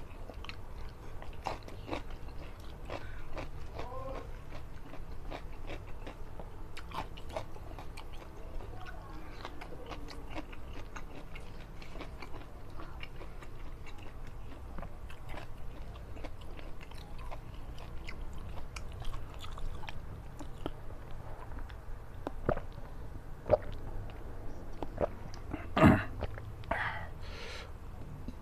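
Close-miked eating sounds of a man eating rice and fish-head curry by hand: chewing with frequent wet clicks and smacks, and one louder sharp smack about 26 seconds in. A low steady hum runs underneath.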